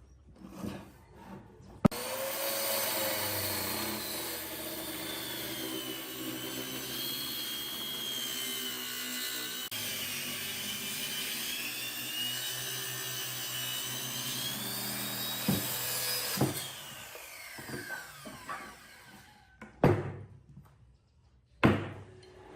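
Handheld electric power tool switched on with a sudden start, running for about fifteen seconds with a wavering whine, then switched off and winding down in pitch. A few sharp knocks follow near the end.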